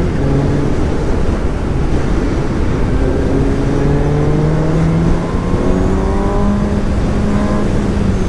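Suzuki GSX-S750's inline four-cylinder engine pulling hard under acceleration, its note climbing steadily, with a few brief drops as it shifts up through the gears, over heavy wind noise.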